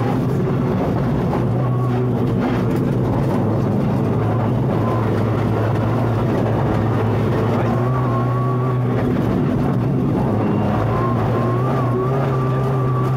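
Rally car's engine heard from inside the cabin while driving hard: a loud, steady engine note that drops slightly in pitch about a second in and holds.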